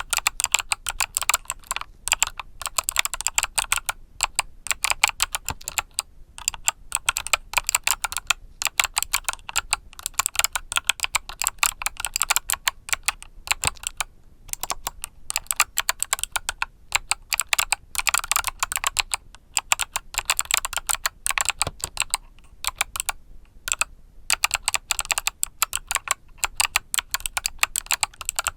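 Mechanical keyboard with clicky Kailh Box Summer switches being typed on quickly and steadily, a dense run of crisp key clicks broken by a few short pauses.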